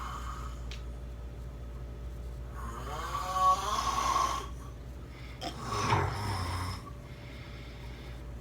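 A person snoring, two long snores about three seconds apart.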